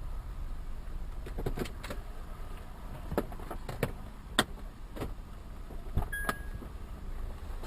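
Car driving, with a steady low rumble of engine and road noise and a scattering of sharp, irregular clicks and rattles, the strongest about halfway through.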